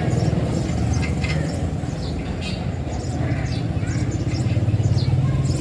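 An engine running steadily with a low drone, with short high chirps scattered over it.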